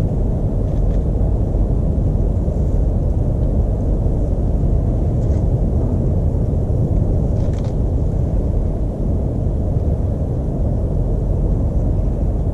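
A steady low rumble runs throughout, with a few faint, brief high bird chirps over it.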